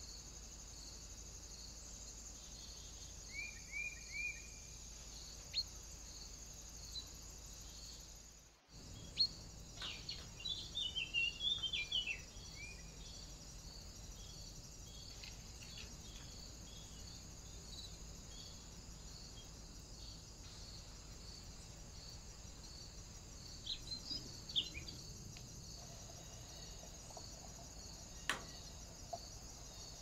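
Wild birds calling: three short chirps about three to four seconds in, a burst of rapid calls around ten to twelve seconds, and a few more chirps near twenty-four seconds, over a steady high-pitched hiss. A single sharp tick sounds near the end.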